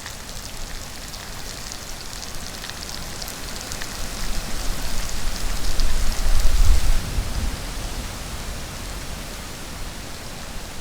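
Heavy rain falling steadily, with a low rumble that swells from about four seconds in and dies away after about seven seconds.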